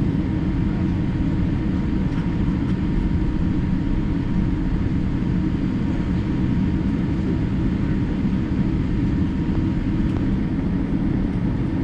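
Steady low rumble inside the cabin of a Boeing 787-8 Dreamliner taxiing in after landing, with its General Electric engines at idle and a faint steady whine above the rumble.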